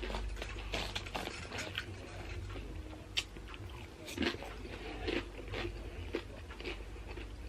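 Close-up mouth sounds of someone biting and chewing crunchy tortilla chips, an irregular run of crisp crunches with a sharper crack about three seconds in.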